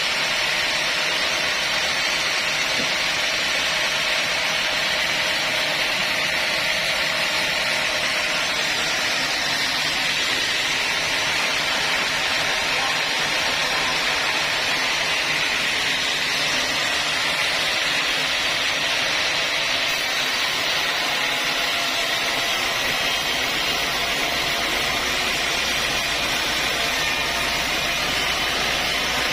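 Sawmill saw running steadily at an even level. A low hum comes in near the end.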